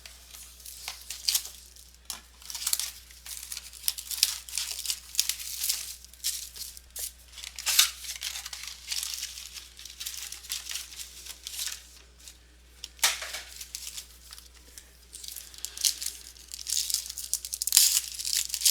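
Plastic wrapping of trading-card packs and box being torn open and crinkled by hand: irregular crackling and rustling, with a sharper rip about 13 s in.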